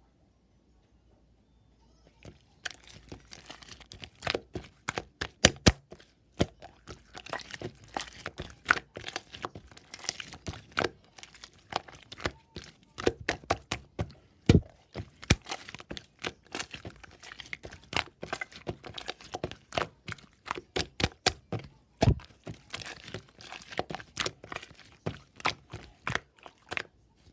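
Grass leaves being crumpled and torn up close, a quick irregular run of sharp cracks and crinkles that starts a couple of seconds in.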